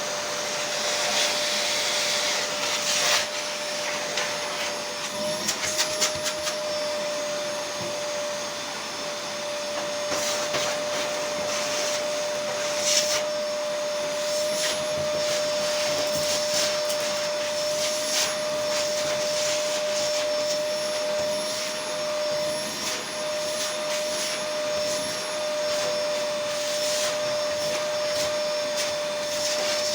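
A motor-driven blower running steadily, with a constant hum and a rush of air, and occasional clicks and rattles over it.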